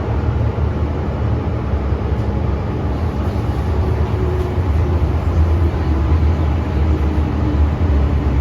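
MTR M-train electric multiple unit running along the line: a steady, loud low rumble of wheels and running gear, with a faint humming tone from the drive that comes and goes.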